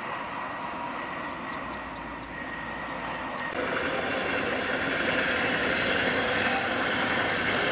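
A pair of electric locomotives running light on the line, a steady distant running noise with a faint high tone. About three and a half seconds in, the sound cuts to a louder, even rush of a passenger train of white coaches rolling past.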